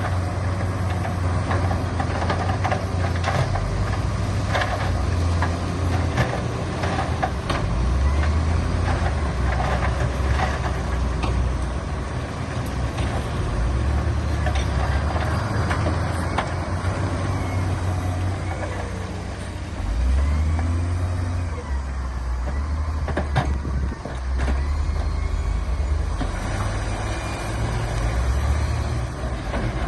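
Diesel engines of heavy earthmoving machinery running, the low engine note stepping up and down with load every few seconds, with scattered clanks and knocks.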